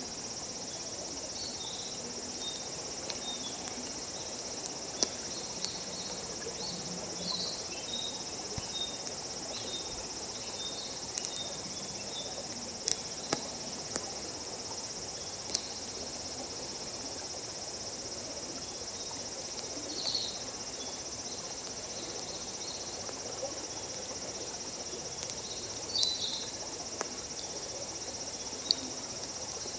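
Crickets trilling steadily, with a wood campfire crackling: a dozen or so sharp pops scattered through, a few of them louder.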